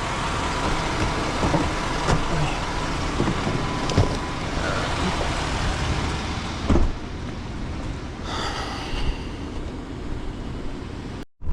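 Motor vehicle running with a steady low rumble, broken by a few sharp clicks or knocks about four and seven seconds in. It cuts off abruptly near the end.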